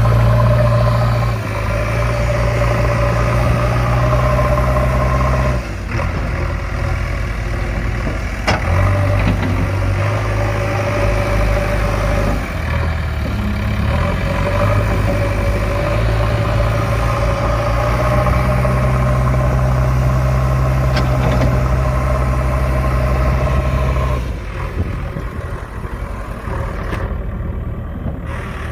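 A steady vehicle engine sound, its low hum stepping up and down in pitch several times and falling away near the end.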